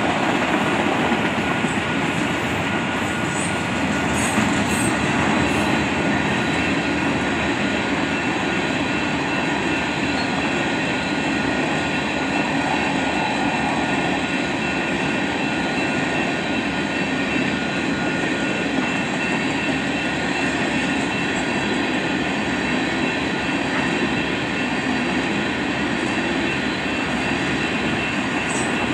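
Freight train cars rolling steadily past, with a continuous clatter and rumble of steel wheels on the rails.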